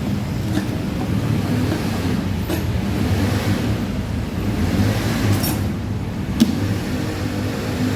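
Steady low vehicle-like rumble with a few sharp clicks; the loudest click comes about six and a half seconds in.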